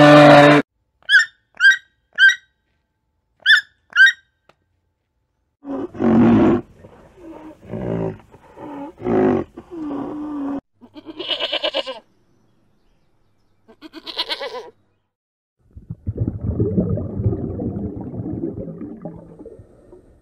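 A series of animal calls. A red deer stag's bellow cuts off just after the start. Then come six short, high chirps, a run of low grunting calls, two brief raspy higher calls, and a long low rumbling growl near the end.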